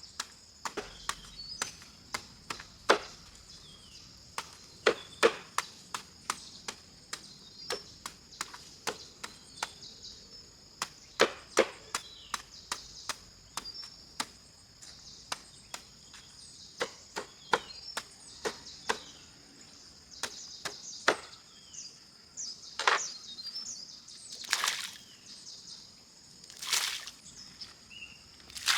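Chopping with a blade, a quick irregular run of sharp strikes, about one or two a second, that grow fewer and louder near the end. A steady high-pitched drone and a few bird chirps run underneath.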